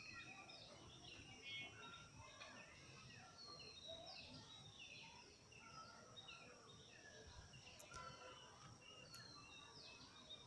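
Faint chorus of small birds chirping and calling, many short falling notes overlapping, over a low background hiss.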